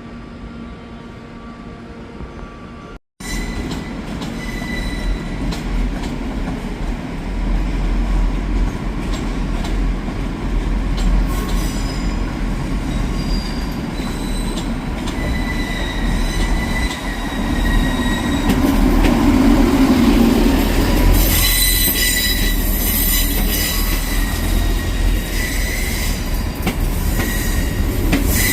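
A train running on rails with a steady low rumble and intermittent high-pitched wheel squeal, which grows louder and harsher in the last several seconds. A brief dropout about three seconds in marks an edit, with a quieter passage before it.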